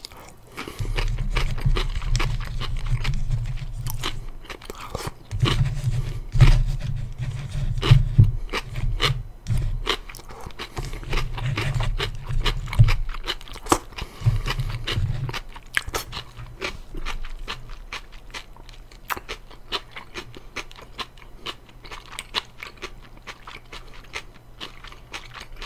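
Close-miked eating of crispy fried chicken: crunchy bites and chewing. Heavy chewing comes in stretches through the first fifteen seconds or so, with lighter crunching after that.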